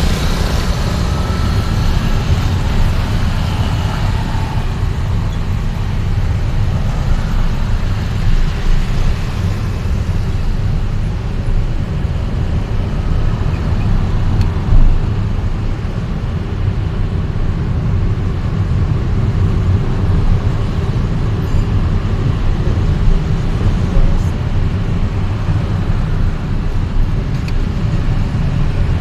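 Steady low rumble of a moving vehicle travelling through city traffic, with road and traffic noise throughout and a brief louder bump about halfway.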